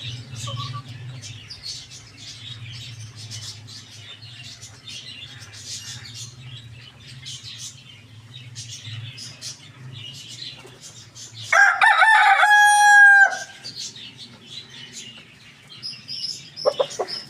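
A rooster crows once, loudly, about twelve seconds in: a call of under two seconds that ends on a held note. Small birds chirp rapidly throughout, a low steady hum runs under them until the crow, and a few short clucks come near the end.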